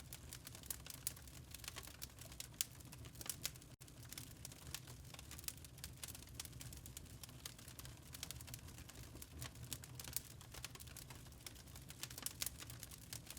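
Wood fire in a fireplace crackling, with irregular sharp snaps and pops of varying loudness over a steady low rumble. A brief dropout about four seconds in.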